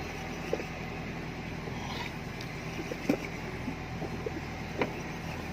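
Fishing boat's engine running steadily, a low drone, with a few short knocks on deck.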